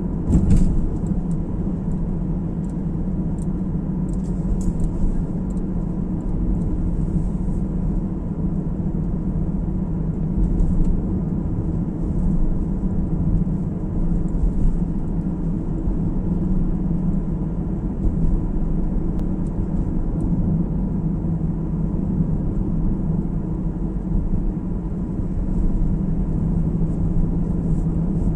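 Steady low road and engine rumble of a car driving, heard from inside the cabin, with a brief sharp click about half a second in.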